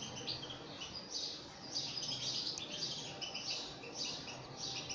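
Canary nestlings begging for food, giving high, thin cheeps in quick repeated bursts as they are hand-fed.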